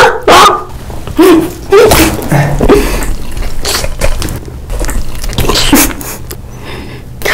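Close-miked eating sounds: a bite into a soft food, then wet chewing and mouth smacks in short, irregular loud bursts.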